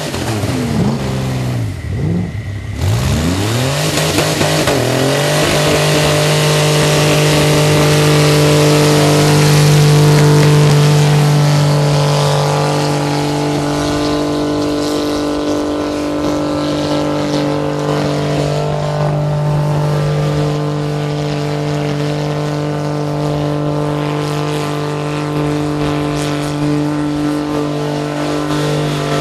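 Twin-turbo V6 engine revved in quick rising and falling blips for the first few seconds, then held at steady revs for the rest of the time.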